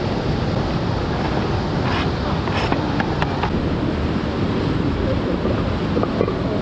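Steady rushing of running water, with a few light clicks about two to three and a half seconds in.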